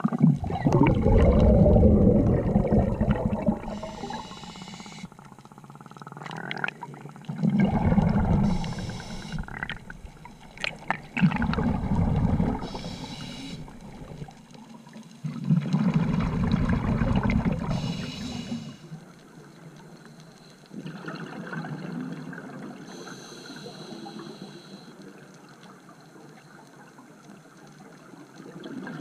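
Scuba diver breathing underwater through a regulator. Four loud rumbling gushes of exhaled bubbles, each lasting a few seconds, alternate with short hisses of inhalation through the demand valve. The last few seconds are quieter.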